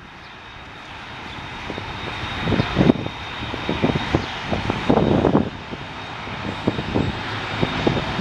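Airliner engines running with a steady high whine over a broad rushing noise, growing louder as the aircraft approaches, with wind buffeting the microphone in low thumps.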